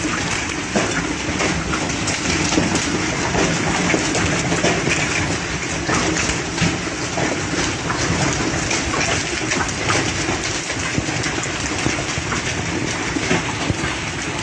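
Large hailstones pelting down in a dense, continuous clatter of countless impacts, with frequent sharper cracks standing out from the din.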